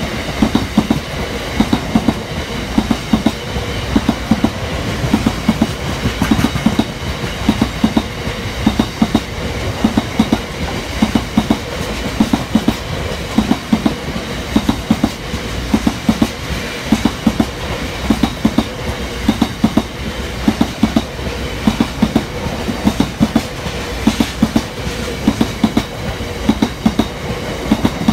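A freight train of bogie oil tank wagons rolling past close by. Its wheels clatter over the track in a steady, continuous clickety-clack rhythm over a running rumble.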